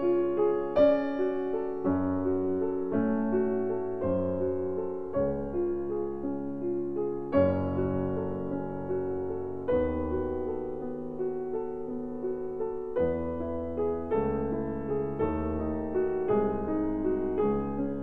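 Background piano music: a melody of single notes over low held chords.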